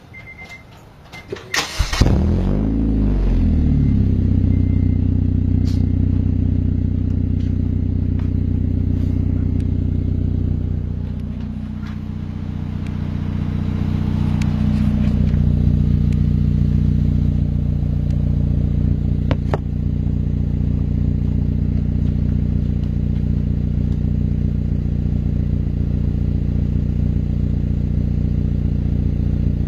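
Honda engine exhaust through a freshly fitted aftermarket muffler. The engine starts about two seconds in, its note swinging briefly as it catches, then runs at a steady idle. The sound dips and swells once midway.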